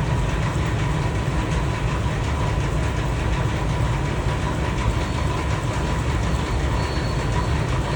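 Induction melting furnace running: a steady machine hum with a constant high tone over a low rumble.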